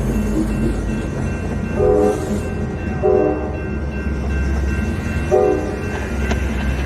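Diesel locomotive horn sounding several short blasts over the steady low rumble of a passing freight train.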